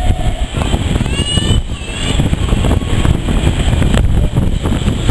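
Heritage railway carriage running along a station platform as the train pulls away, a steady, uneven low rumble. A steady high tone stops about half a second in.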